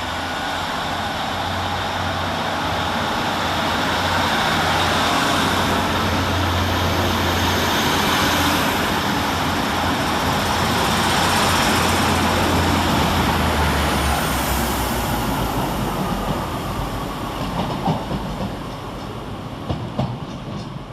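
Two coupled Class 150 Sprinter diesel multiple units running under diesel power with wheels on the rails. The engine note and rail noise build for about twelve seconds, the low engine tone drops about two thirds of the way through, and then the sound fades away.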